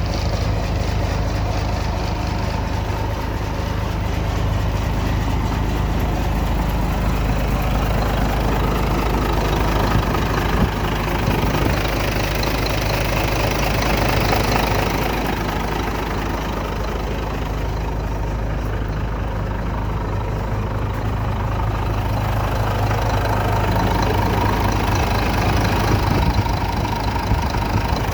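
Late-1980s Mack semi truck's diesel engine idling steadily.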